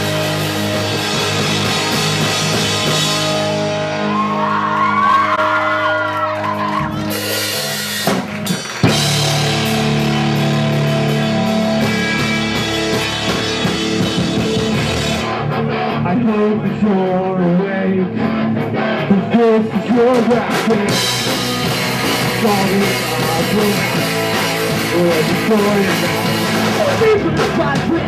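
Punk rock band playing live: drums and amplified instruments, with a short break about eight seconds in. In the second half a singer's voice runs over the band.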